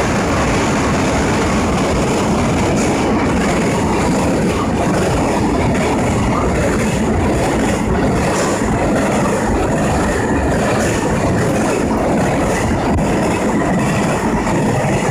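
Freight train hauled by an EF510 electric locomotive passing through a station without stopping. The wagons roll by with a loud, steady rumble and a faint clatter of wheels over rail joints.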